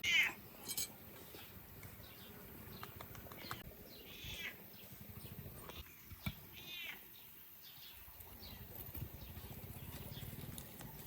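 A cat meowing three times: a loud meow right at the start, then two more at about four and a half and seven seconds in.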